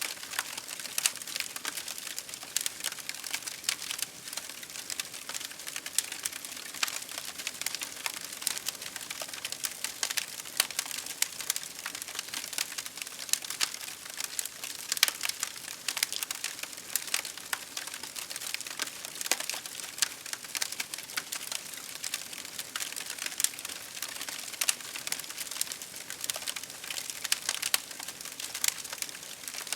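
Wood campfire crackling: a dense, irregular run of sharp pops and snaps over a soft steady hiss.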